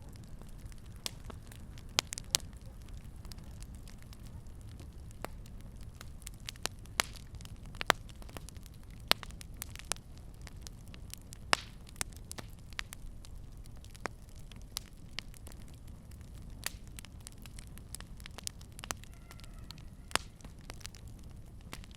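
Fireplace fire crackling: sharp, irregular pops, about one or two a second, over a steady low rumble of the flames.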